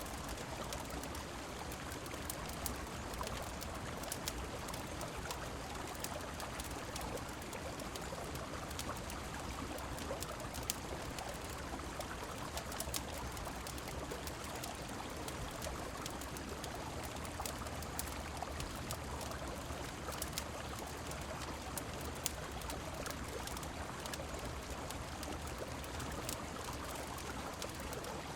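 Steady rush of flowing river water mixed with rain, with scattered short sharp crackles throughout.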